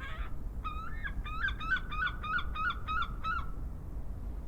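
Seagull calling: a quick run of about ten rising calls, about four a second at their quickest, ending about three and a half seconds in. Under it runs a steady low hum of traffic.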